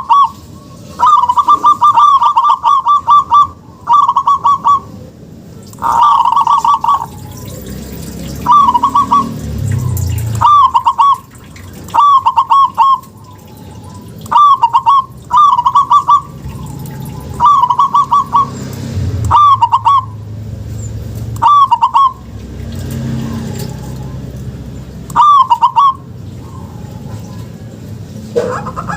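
Zebra dove (perkutut) cooing: short phrases of quick, rolling notes repeated every second or two.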